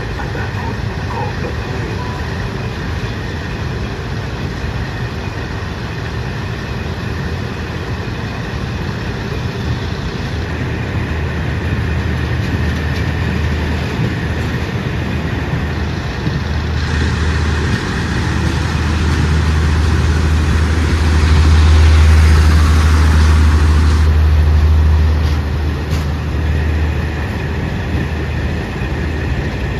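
Diesel train running with a low, steady engine hum that swells over the first twenty seconds. A rushing rail noise joins it, loudest a little past the middle, then both ease off.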